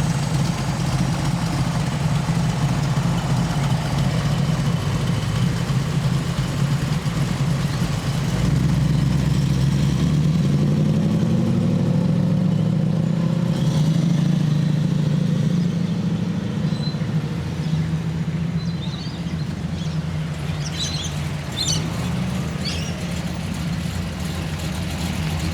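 A big car engine running with a deep rumble as the car rolls through, rising in pitch for a few seconds around the middle and settling back afterwards.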